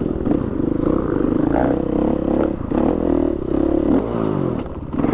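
Dirt bike engine running under changing throttle, the revs rising and easing in short pulls, then dropping away in a falling sweep about four seconds in.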